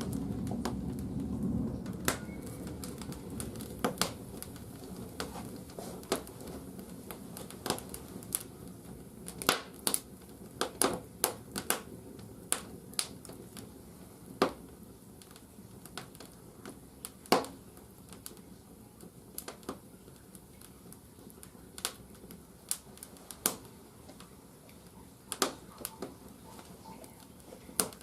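Firewood crackling in the firebox of an old wood-fired bathhouse boiler: irregular sharp pops, a few a second at times, over a low rumble that fades within the first couple of seconds.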